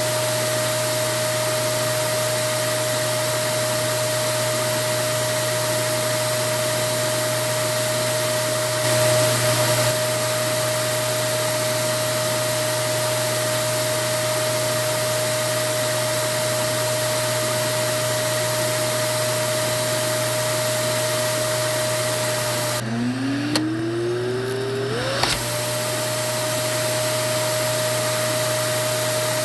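Vacuum cleaner motor running steadily, a rushing noise with a high whine. About 23 seconds in the sound drops and there are a couple of clicks. The motor whine then slides back up to its full pitch over about two seconds.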